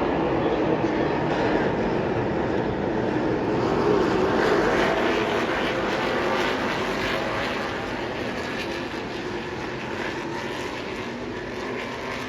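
A field of NASCAR Craftsman Series race trucks with V8 engines at full throttle, passing the grandstand: the engine noise swells to its loudest about four seconds in, then slowly fades as the pack moves away.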